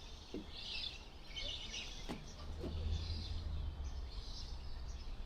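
Small birds chirping in short, repeated calls over a low, steady rumble.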